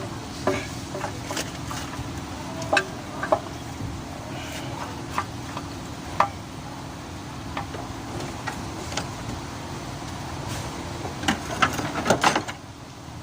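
Scattered metallic clicks and knocks from hand tools working on a car engine, with a quick run of them near the end, over a steady low hum.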